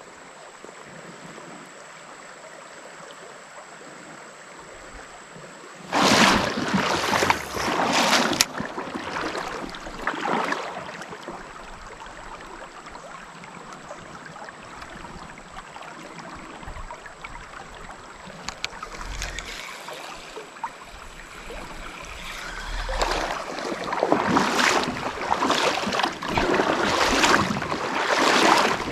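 Water splashing and sloshing around a kayak. A faint steady hiss of water and air comes first. A couple of seconds of loud splashing start about six seconds in, another short splash comes near ten seconds, and a run of repeated splashing surges, about one a second, begins near the end.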